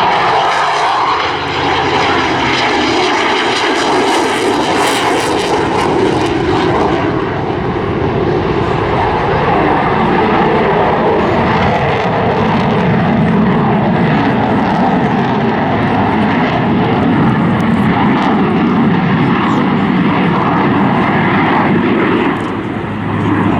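RAF Eurofighter Typhoon FGR4's twin jet engines together with a Spitfire's piston engine during a formation flypast: a loud, steady rush of aircraft noise. For the first several seconds it has a sweeping, phasing quality.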